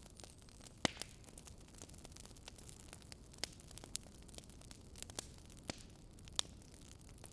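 Faint wood fire crackling: a low steady hiss with irregular sharp pops, the loudest about a second in and near the end.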